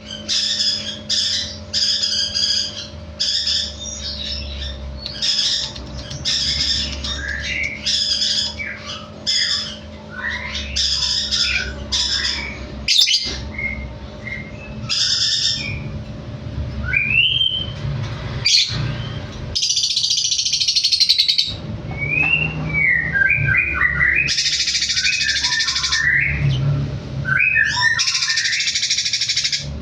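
A songbird kept by a bird-keeping hobbyist, calling and singing in a long string of short, harsh, buzzy notes mixed with brief whistled phrases that glide up and down, over a steady low hum.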